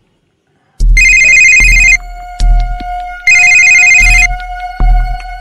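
Mobile phone ringtone: an electronic ring in bursts about a second long, starting about a second in and sounding twice. Background music holds a steady note underneath from about two seconds in.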